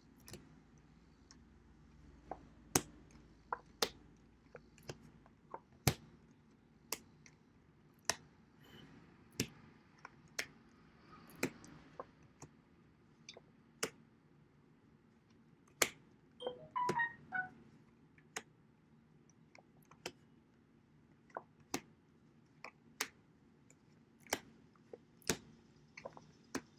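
A series of sharp single clicks or taps, roughly one a second at uneven spacing, with a brief warbling sound a little past the middle.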